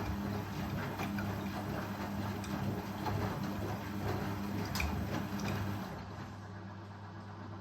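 Indesit Ecosense washing machine running: a steady low hum under splashing water noise with small clicks. About six seconds in, the water noise fades, leaving the hum on its own.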